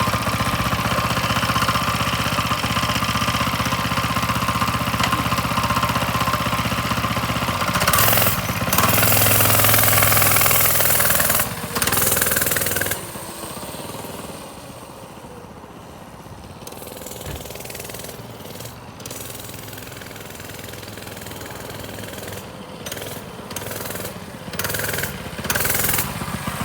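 Coleman CC100X mini bike's small four-stroke engine running just after starting: a steady run, revved louder for a few seconds about eight seconds in, then much quieter from about thirteen seconds in, with short louder surges near the end.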